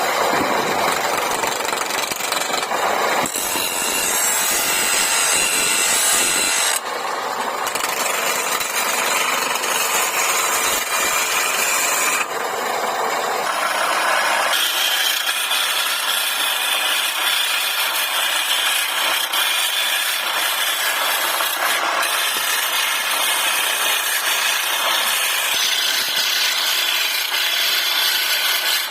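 Turning tool cutting into a wood blank spinning on a lathe: a continuous rasping scrape that changes character abruptly several times.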